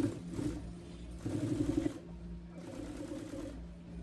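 Upholstery sewing machine stitching a pleat channel through leather, with a louder quick run of stitches about a second in, then softer stitching over a steady motor hum.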